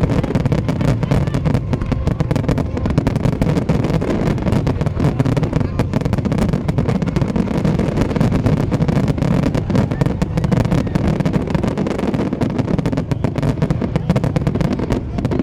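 Fireworks popping and crackling in a dense, continuous stream over a low rumble, with crowd voices mixed in.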